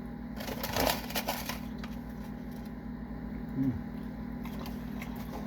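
A crackling rustle lasting about a second near the start, then a short hummed "mm" of a voice, over a steady low electrical hum.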